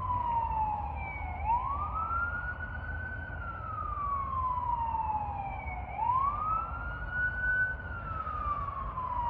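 Emergency vehicle siren wailing: the pitch sweeps up quickly and then falls slowly, the cycle repeating about every four and a half seconds, over a steady low rumble.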